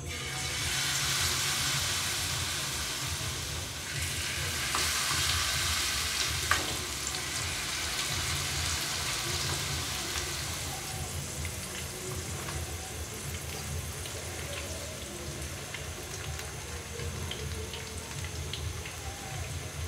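Vegetable kakiage batter (cabbage, carrot, bean sprouts and corn) sizzling loudly as it goes by the spoonful into hot oil in a frying pan. The sizzle swells again about four seconds in, with one sharp tap a couple of seconds later. It then settles into a steady sizzle of the fritters frying that eases off slowly.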